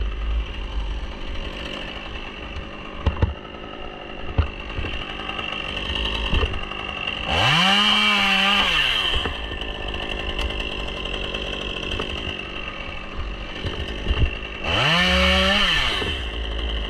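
Chainsaw idling, then revved up to full throttle twice, each time for about two seconds, with the pitch rising and falling back. A few sharp clicks come between the revs.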